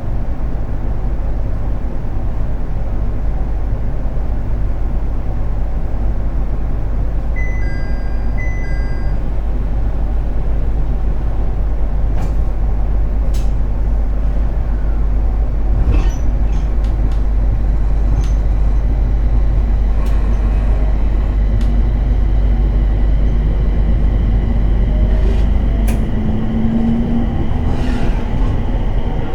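Inside a JR East 701 series electric multiple unit: a steady low rumble from the train, with two short beeps about eight seconds in. Near the end the traction motor whine starts to rise in pitch as the train picks up speed.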